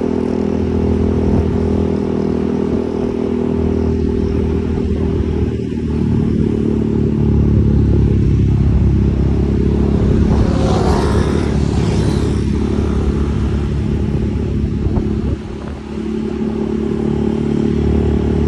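Motorcycle engine running steadily while under way. A rush of hiss swells and fades over about two seconds in the middle. The engine drops off briefly about three-quarters of the way through, then picks up again.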